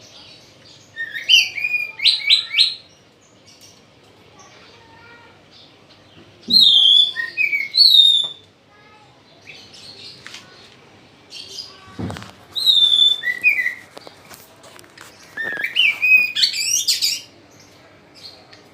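A bird singing loud, whistled, chirping phrases in four short bursts, one every four to five seconds.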